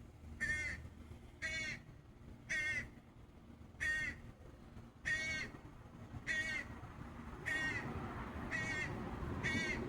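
A bird in a tree calling over and over: a short call about once a second, nine times.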